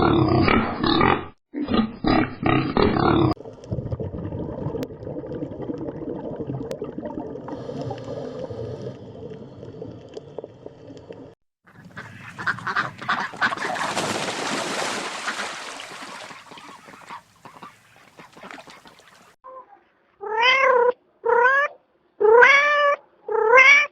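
A run of different animal calls: rapid, loud pulsed calls for about the first three seconds, then a long stretch of noisier, unpitched animal sound, then in the last few seconds a cat meowing over and over, each meow rising and falling in pitch.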